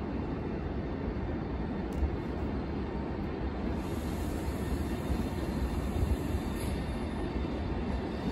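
A train running on the rails: a steady, low rumble, with a single sharp click about two seconds in.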